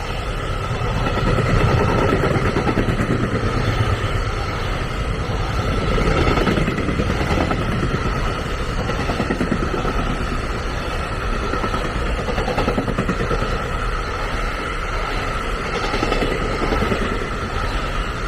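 A train running past on the line, a steady loud rumble of wheels on rails with the level rising and falling a little.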